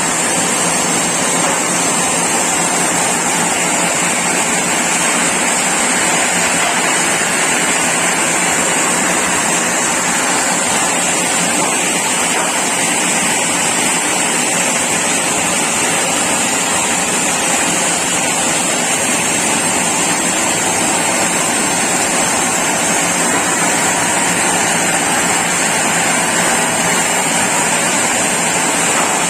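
Sawmill saw running steadily: a continuous loud machine noise with a constant high whine.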